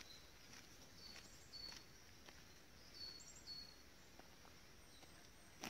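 Near silence in woodland, with a small bird giving faint, short, high chirps, mostly in pairs, a few times. A single click comes near the end.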